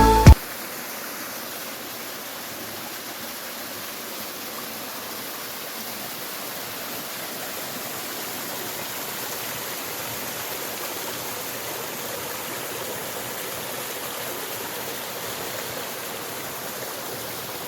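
Stream water rushing and splashing steadily over rocks, an even wash of noise with no change.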